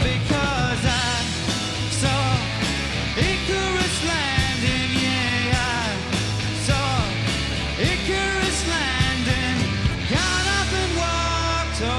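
Live rock band playing a song at a steady beat: drums with cymbals, electric and acoustic guitars and bass, with a lead line bending in pitch and the singer's voice coming in near the end.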